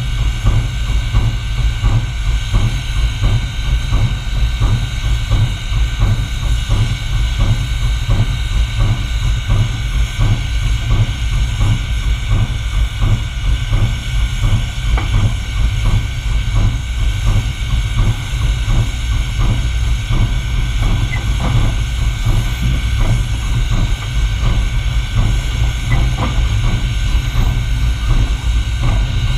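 Reading & Northern 425, a 4-6-2 Pacific steam locomotive, running with its train: a steady heavy rumble with a quick, regular beat of strokes throughout.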